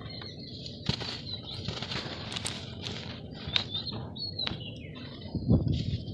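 Dry red dirt being crushed and crumbled: irregular crackles and crunches, with a few heavier thuds about five and a half seconds in.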